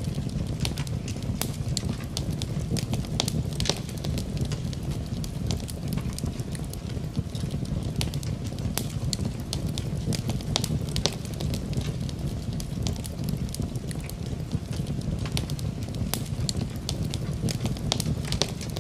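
Wood fire in a fireplace crackling, with irregular sharp pops and snaps over a steady low rumble of flames, blended with a steady hiss of rain.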